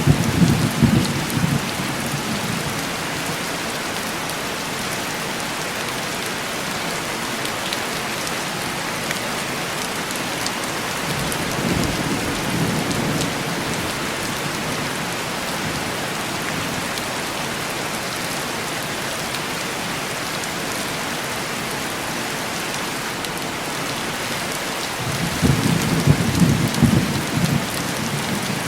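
Heavy, steady rain with distant thunder rumbling three times: at the start, about halfway through, and again near the end.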